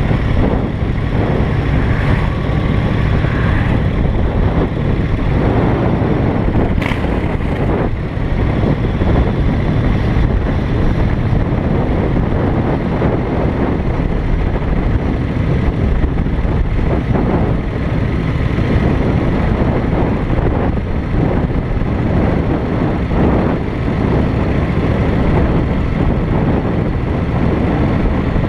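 Yamaha Wildstar V-twin cruiser motorcycle running steadily on the move, engine rumble mixed with road and wind noise. A short sharp tick about seven seconds in.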